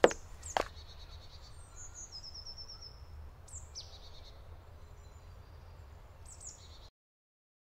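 Forest ambience with birds calling: a quick run of high chirps about two seconds in, a high call sweeping downward in the middle, and another short call near the end, over a faint low rumble. Two sharp knocks sound in the first second, and the sound cuts off abruptly to silence shortly before the end.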